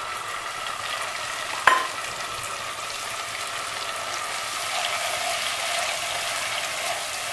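Cashew-and-onion paste frying in hot oil and ghee in a pot, a steady sizzle while a wooden spatula stirs it, with one sharp knock a little under two seconds in.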